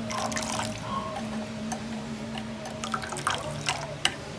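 White vinegar being poured from a bottle into a bowl of sauce, a splashing trickle in the first second, followed by a few light clicks near the end.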